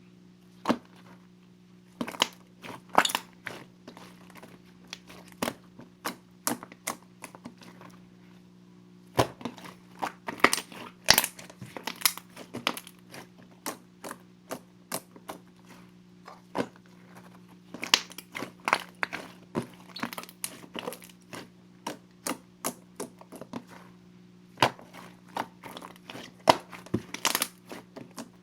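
Slime being squished and poked by hand, giving sharp irregular clicks and pops that come in quick clusters, over a faint steady low hum.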